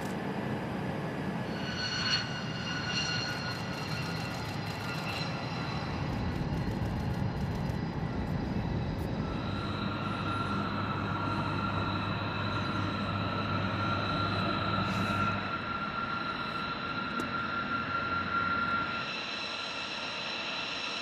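Aircraft engine running steadily: a constant rush with a low hum and high whining tones, one whine setting in about halfway and fading out near the end.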